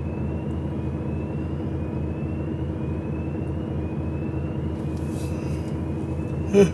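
HGV lorry's diesel engine running steadily, heard inside the cab while driving, with a faint rising chirp repeating about once a second. A single short knock near the end is the loudest sound.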